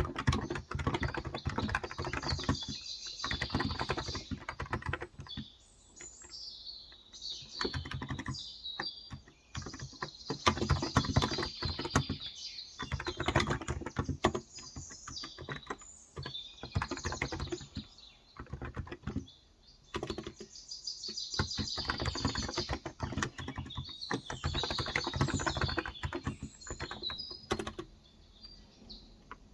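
Fast typing on a Cox Endeavor electro-capacitive (35 g) keyboard, runs of soft key clicks broken by short pauses. Birds chirp steadily in the background.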